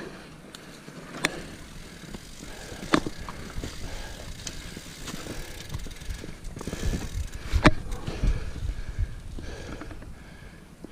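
Trek Fuel EX 8 full-suspension mountain bike ridden uphill on a dirt trail: a steady tyre-and-drivetrain noise broken by a few sharp clicks and knocks. The loudest knock comes about three quarters of the way through, amid a heavier rumble.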